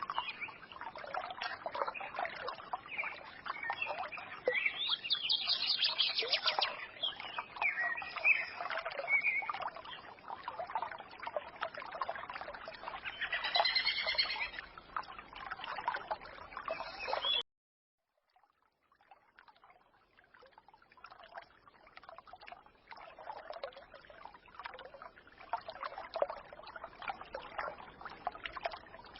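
Forest stream trickling and gurgling, with small birds chirping over it, the birdsong strongest twice, about five and thirteen seconds in. About seventeen seconds in the sound cuts out suddenly for a second, then the stream fades back in more quietly with fewer birds.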